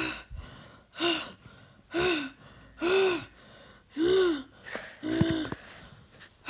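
A person's voice making six short breathy sounds, about one a second, each rising then falling in pitch: vocal effort noises for a dragon marionette in flight.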